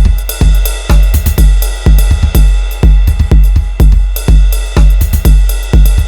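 Electronic drum-machine beat played on Native Instruments Maschine: heavy deep kick drums with long booming bass tails, roughly two hits a second, under ticking hi-hats and a held synth tone.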